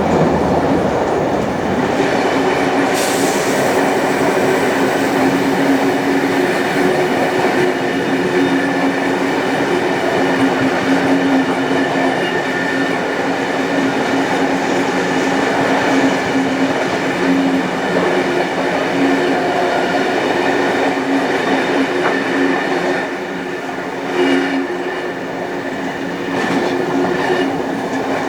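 Passenger carriages of a heritage train hauled by steam locomotive 3801 running along the line: a steady noise of wheels on rails with a few held tones, easing briefly about 23 seconds in.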